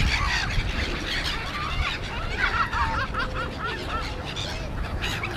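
Waterbirds calling, with a quick run of about seven short calls near the middle, over a steady low rumble.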